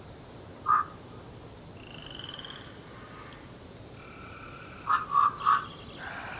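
Short, loud croaking animal calls: one about a second in, then three in quick succession near the end. Fainter high-pitched bird calls and a steady background hiss run underneath.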